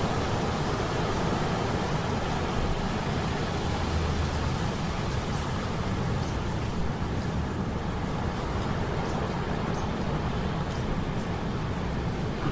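Ambient soundscape of metal gears humming steadily, layered with the constant rushing noise of a sea storm.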